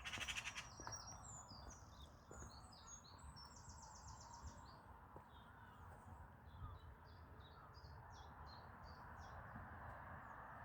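Small songbirds chirping and trilling, faint, over a steady background hiss, with a short, loud, fast rattle at the very start.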